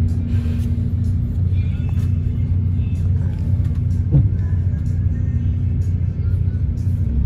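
Steady low rumble of a moving Philippine Rabbit bus, engine and road noise heard from inside the cabin, with a single bump about four seconds in.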